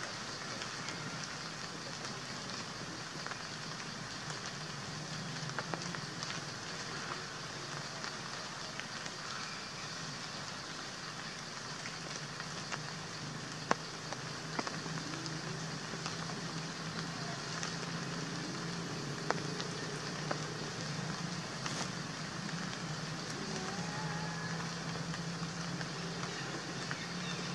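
Steady rain falling on foliage, with scattered individual drops ticking, over a low steady hum.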